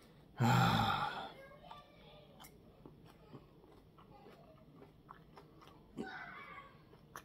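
A man chewing a piece of chocolate Primotalii chili pepper, with soft, scattered mouth clicks. A loud, breathy vocal noise comes about half a second in, and a shorter breathy exhale about six seconds in.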